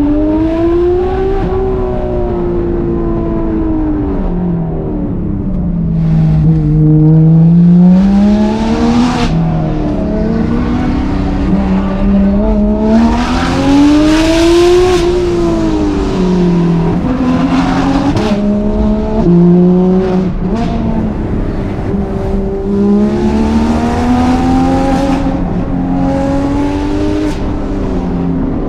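Porsche 991.2 GT3 RS's naturally aspirated flat-six, breathing through Dundon street headers and a 'crack pipe' exhaust, being driven hard: several long climbs in pitch through the revs, each followed by a sudden drop as it shifts or lifts off.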